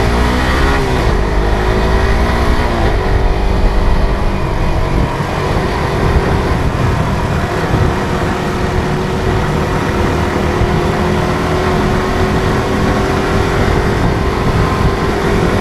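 Suzuki GSX-R150's single-cylinder four-stroke engine under way, its revs climbing and dropping with gear changes in the first few seconds, then holding a steady, slowly rising pitch as the bike pulls up the road.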